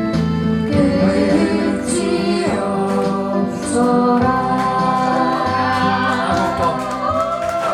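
Live singing of a slow Korean ballad with accompaniment, more than one voice singing together, with long held notes.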